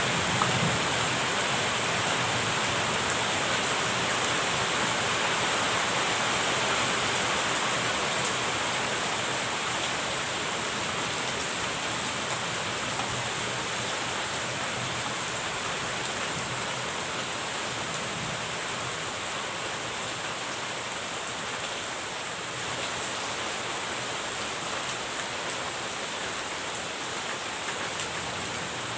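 Steady rain falling, an even hiss of drops that grows slowly a little quieter.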